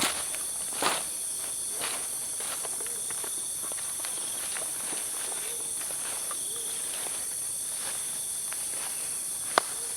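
Night forest insect chorus: a steady high-pitched drone with chirring, and a short low call repeating about once a second. A few sharp clicks or snaps sound near the start and one near the end.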